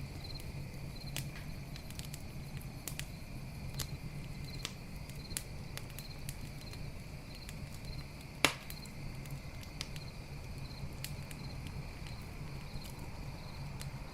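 Campfire crackling with scattered sharp pops, one much louder snap of burning wood about eight and a half seconds in, over crickets chirping in a steady rhythm.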